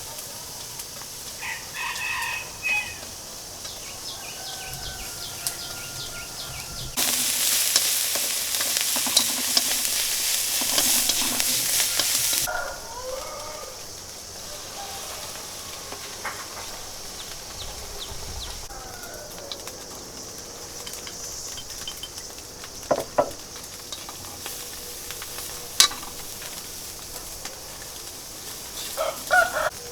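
Food frying in a hot pan: a loud sizzle starts suddenly about seven seconds in and dies down after about five seconds, with scattered clicks and scrapes of a utensil stirring. A few short chicken calls sound early on.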